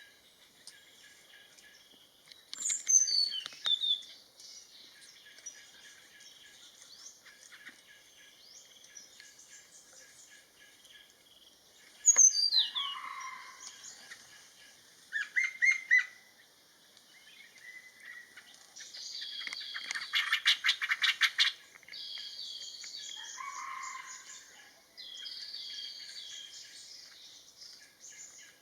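Several wild birds calling over a steady high-pitched background chorus, with two falling whistled calls a few seconds in and again about twelve seconds in, and a fast, evenly spaced chattering run about twenty seconds in.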